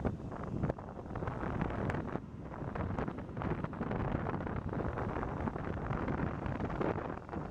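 Docklands Light Railway train passing close by: steady rumble of steel wheels on the rails and running gear, with a few light clicks and wind on the microphone.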